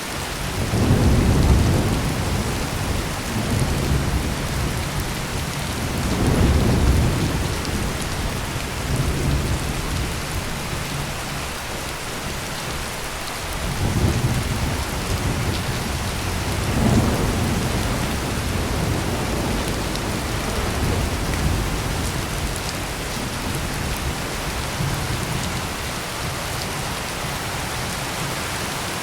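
Heavy rain pouring steadily, with a long peal of rolling thunder that breaks about a second in and rumbles on in several waves before fading back under the rain.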